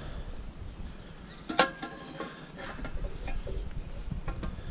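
Pieces of thin scrap metal clanking as they are handled: one sharp metallic clank about one and a half seconds in that rings briefly, then a few lighter knocks.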